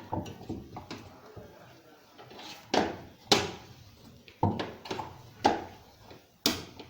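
A stone used as a hammer, knocking on a washing machine's drum assembly to drive a part loose while the worn drum bearings are being taken out. The knocks are irregular: small ones near the start, then louder blows in the second half, about one a second.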